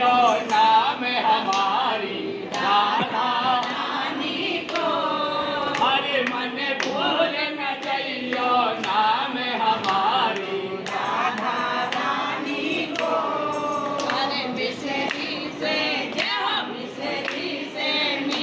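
A group of voices singing a devotional song together in wavering, ornamented lines, with short sharp strikes sounding through it.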